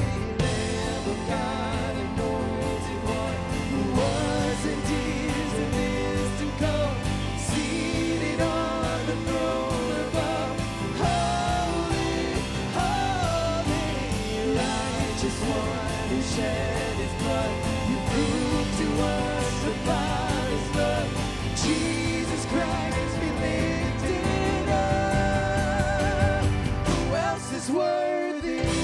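Live worship band playing with singing, over a steady beat; the bass briefly drops out near the end.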